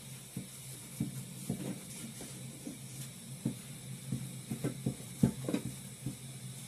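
Pot cooking on the stove with a steady hiss, overlaid by irregular knocks and taps of a utensil against the pot that come thicker in the second half, the loudest about five seconds in.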